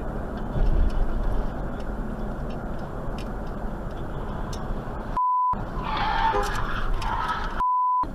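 Steady low rushing noise, cut twice by a short steady beep, about five seconds in and again near the end, with a louder raised sound in between.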